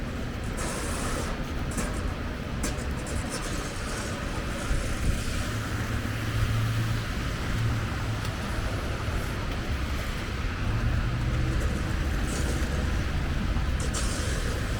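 City street traffic: motor vehicles running and passing, with a low engine hum that swells twice and a steady hiss of tyres and street noise.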